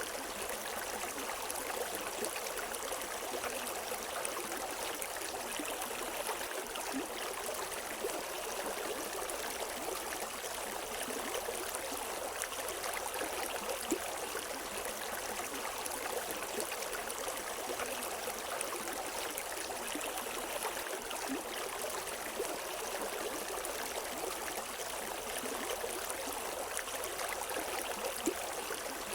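River water flowing and splashing steadily, an even rushing with small gurgles and splashes throughout.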